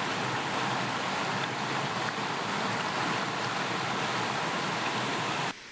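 Steady rushing of a waterfall, cutting off abruptly near the end to a much quieter background.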